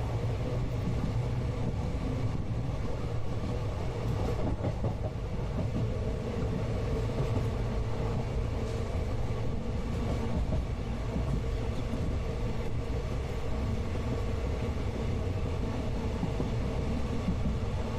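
Steady rumble of a moving passenger train heard from inside the coach, with faint wheel and carriage noise and no distinct clickety-clack rhythm.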